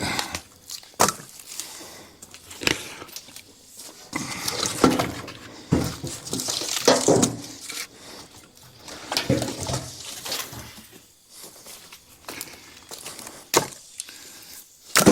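Split firewood being handled: irregular sharp wooden knocks and clatter as pieces strike each other, with scraping and rustling in between.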